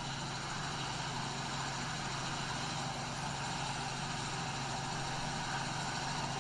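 Helicopter cabin noise in flight: a steady low drone from the rotor and engine under an even hiss.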